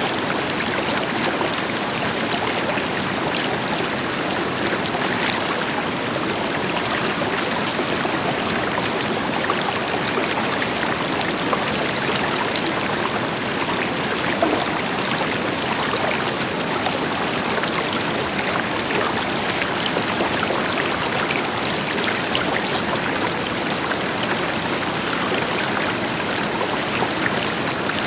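River water flowing steadily over rocks, a continuous rush full of small splashes and gurgles, with the deeper hiss of a distant waterfall beneath it.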